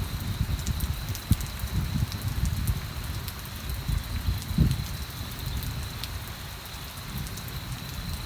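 Rain falling steadily, with scattered sharp drop ticks over an uneven low rumble.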